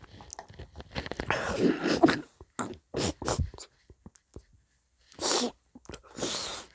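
Close-miked eating of meringue cookies: short crisp crunches with forceful breathy blasts of air through the nose and mouth, one of them voiced, about a second in.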